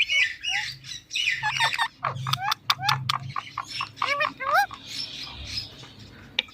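Indian ringneck parakeet chirping and squawking: a quick string of short, sharp calls that slide rapidly up and down in pitch, with a few sharp clicks among them.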